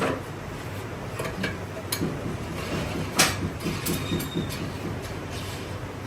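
Metalworking workshop noise: a steady machine hum with scattered sharp metal clanks, the loudest about three seconds in.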